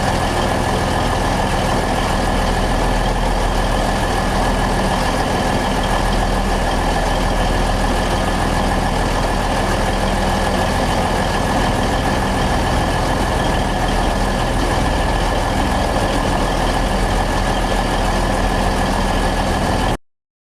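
Twin-engine diesel-hydraulic locomotive running steadily at idle: a low engine drone with a steady high whine over it. The sound cuts off suddenly near the end.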